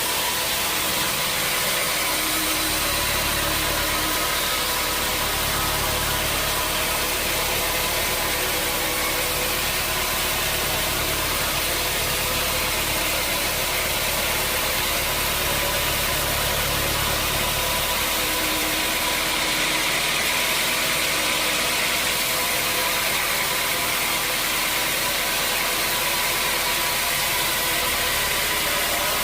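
Sawmill machinery running steadily: a motor hum with steady tones under a dense, even hiss. The deepest part of the hum drops away about 18 seconds in and comes back near the end.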